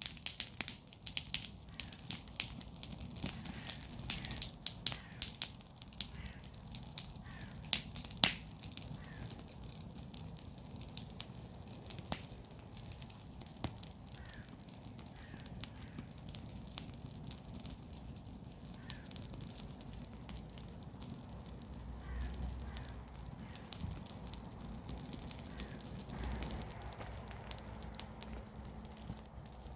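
Garden fire of burning garden waste crackling, with sharp pops that come thick and fast for the first several seconds and then thin out, over a steady low rumble.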